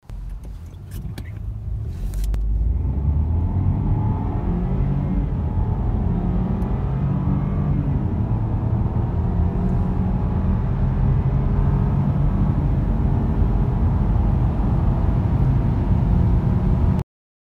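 A car engine accelerating hard from a standstill, heard from inside the cabin, its pitch climbing as speed builds. There are a few sharp clicks in the first two seconds, and the sound cuts off suddenly near the end.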